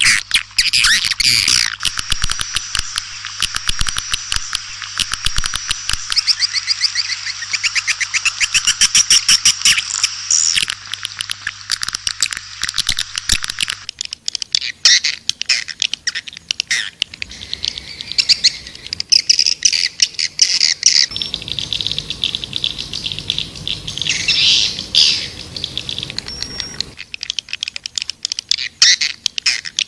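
Swiftlets chittering in fast, dense twittering trills, many calls overlapping: a swiftlet lure call recording. About 14 seconds in, a faint low hum under the calls stops abruptly as the recording changes.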